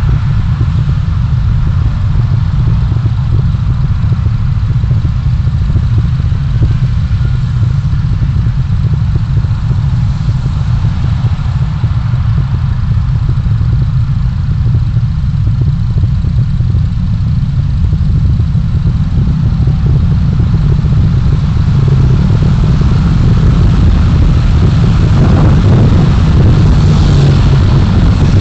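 A car's engine and road noise, recorded from inside by a dashcam: a steady low rumble that grows a little louder toward the end.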